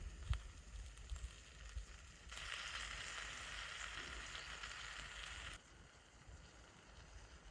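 Sizzling from a hot cast-iron mess tin over a campfire: an even hiss that starts and stops abruptly, about three seconds long, after a couple of low knocks at the start.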